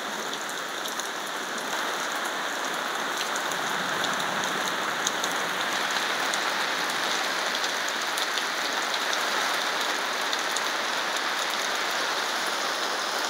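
Steady rain storm heard from under a garage awning, with scattered individual drops tapping close by. The rain grows a little heavier about two seconds in.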